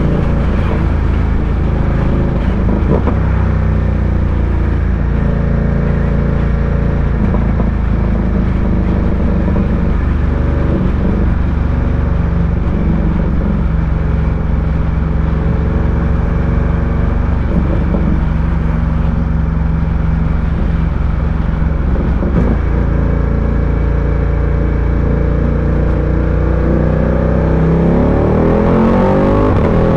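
Ducati Diavel 1260's V-twin engine running at a steady road speed. Near the end the revs rise as it accelerates.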